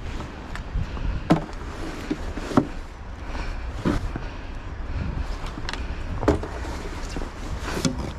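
A series of sharp knocks or thumps, about five, spaced a second or more apart, over a steady low rumble.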